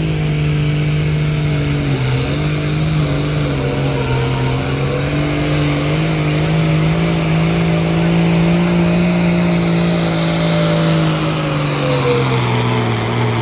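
Engine of a pulling vehicle running flat out under load during a pull run, holding a high steady note. The pitch dips briefly about two seconds in and sags near the end as the engine is pulled down.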